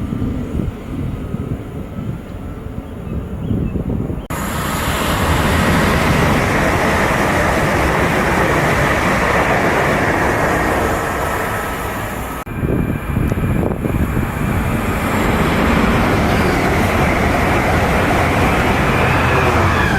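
Train passing close by at speed: a low, uneven rumble, then a loud, steady rush of wheels on rail that starts abruptly about four seconds in, drops out briefly around twelve seconds and carries on.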